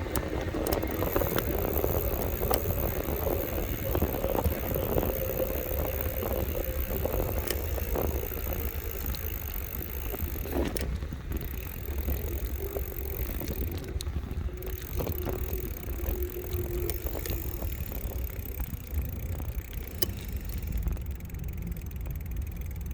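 Electric bike in motion: a steady low rumble of wind on the microphone with scattered rattles and clicks. A faint steady whine runs through the first several seconds and returns briefly past the middle.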